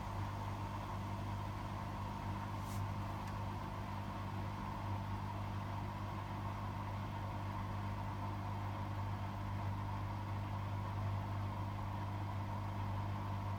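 Hotpoint WMFUG 942 washing machine spinning at a steady speed during its intermediate spin: an even motor hum with a higher whine over it, with no change in speed.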